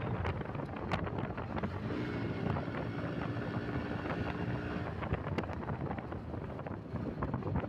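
Bajaj Pulsar NS125 motorcycle's single-cylinder engine running steadily under way, with wind buffeting the microphone.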